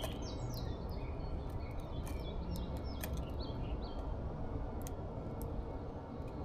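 Small birds at a feeder chirping in short, downward-sliding notes, with scattered sharp clicks, over a steady low background rumble.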